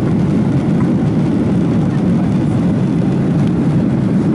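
Steady, loud engine noise of an airliner heard inside the passenger cabin during takeoff.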